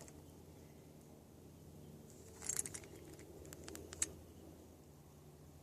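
Keys jangling briefly about two and a half seconds in, then a few light clicks, the sharpest near four seconds, all faint over a low steady hum.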